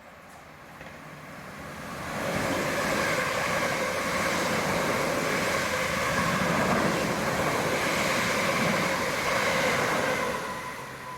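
An electric passenger train passing through the station: its running noise swells over the first couple of seconds, holds loud with a steady rush and a few sustained tones for about eight seconds, then dies away near the end.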